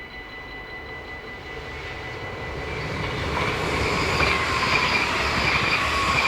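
A train approaching and passing through a level crossing: its rumble grows from about a second and a half in, with a thin wheel squeal from about halfway. The crossing's warning bell keeps ringing steadily throughout.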